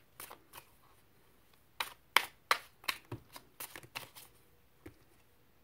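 Tarot cards being shuffled: a few soft card flicks, then a quick run of crisp snaps lasting about two seconds, and one last snap near the end.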